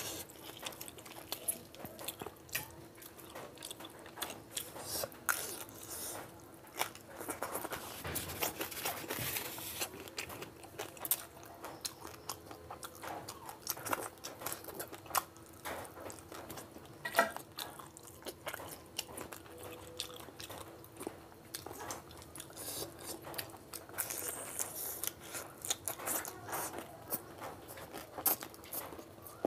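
Close-miked chewing and mouth sounds of a person eating rice and curry by hand, a dense run of short, irregular wet clicks and smacks.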